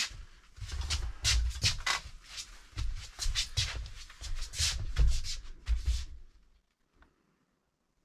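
Shuffling, rubbing and dull bumping of a piece of furniture being lifted and flipped over, which stops about six seconds in.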